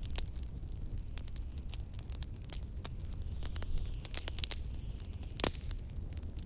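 Wood fire in a fireplace crackling, with frequent sharp snaps and one louder pop about five seconds in, over a steady low rumble.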